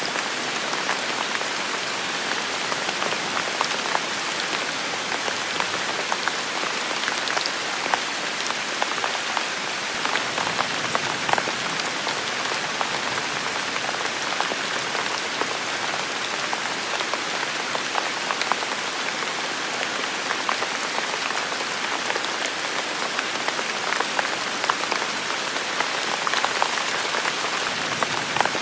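Heavy rain falling steadily: a dense, even hiss with many separate drop impacts ticking through it.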